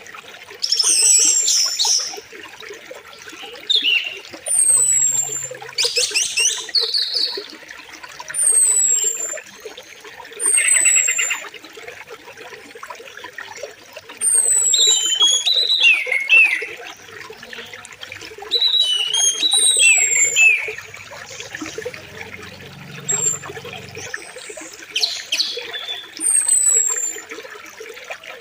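Birds calling over the steady rush of a flowing river. A high, thin call slurring downward repeats every couple of seconds, with other chirps and trills between.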